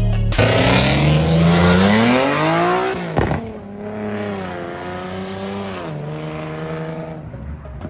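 Car engine accelerating hard, its revs climbing steeply, with an upshift about three seconds in. After the shift it pulls again more quietly, then settles lower.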